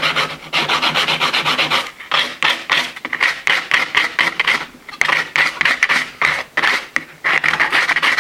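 A wooden peg being shaped with a hand rasp: quick, rough back-and-forth strokes on the wood, in runs broken by a few short pauses.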